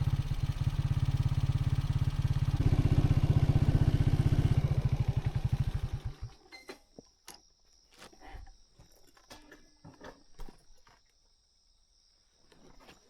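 A vehicle engine running steadily, getting a little louder about two and a half seconds in, then switched off about six seconds in, its pulses slowing as it stops. Afterwards insects chirp steadily, with scattered clicks and knocks.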